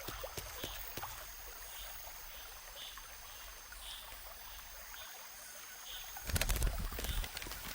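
Quiet outdoor nature ambience: a faint even rush like running water, small high chirps repeating about twice a second and a few light clicks. About six seconds in, a louder rustling burst lasts about a second.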